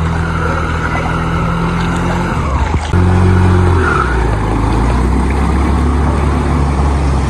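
Motor vehicle engine running steadily. Its note changes and grows louder about three seconds in, just after a brief knock.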